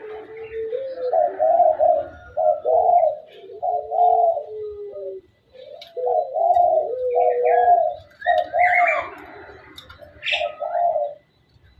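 Bird calling: a run of short, low, arching notes repeated about two a second, some over a lower held note, with a few higher, sharper chirps about nine seconds in.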